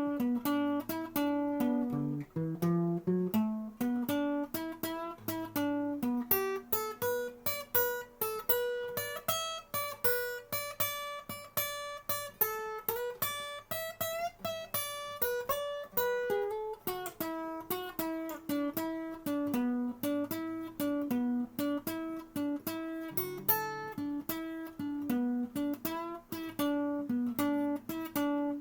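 Acoustic guitar playing: a steady stream of plucked notes over a moving bass line.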